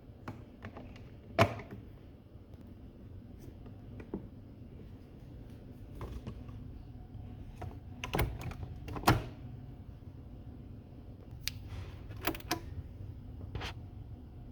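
Sharp plastic clicks and knocks from handling a Nespresso coffee machine and its milk frother parts, the loudest about a second and a half in and twice around eight to nine seconds in, over a low steady hum.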